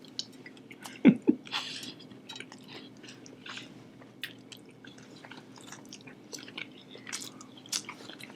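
Close-miked chewing of a sushi roll: soft wet mouth clicks and smacks scattered throughout, with a couple of short, louder low sounds about a second in.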